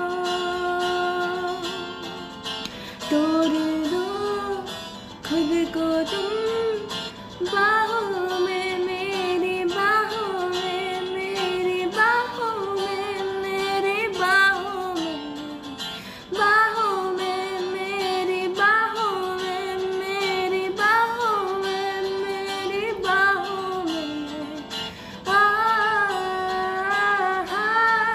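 A female voice singing a wordless melody, a string of long held notes that bend in pitch, over acoustic guitar.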